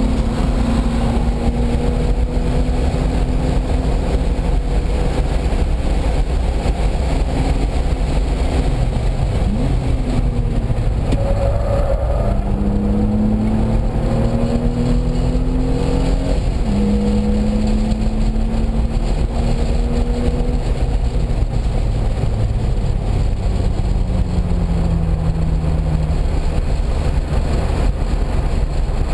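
A car's engine heard from inside while it laps a race track. The engine note climbs steadily, then drops sharply at each gear change, several times over, under a heavy, steady road and wind rumble.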